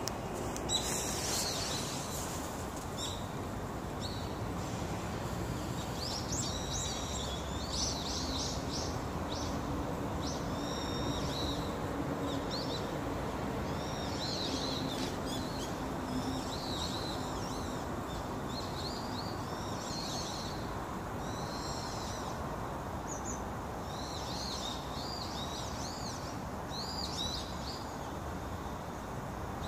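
Small birds chirping in quick runs of short, high calls over a steady background of outdoor noise.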